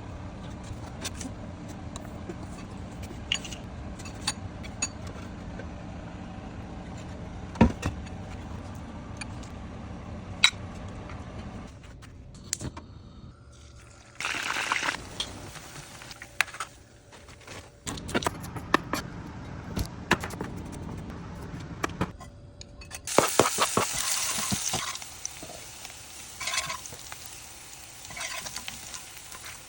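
Kitchen cooking sounds: a steady low hum with scattered sharp clicks and knocks for about the first twelve seconds, then two spells of hissing, running or pouring liquid among the clatter of utensils.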